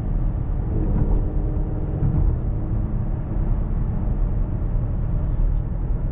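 Chevrolet Camaro's 3.6-litre V6 engine and exhaust running steadily under way in touring drive mode, heard from inside the cabin as a low drone mixed with road noise.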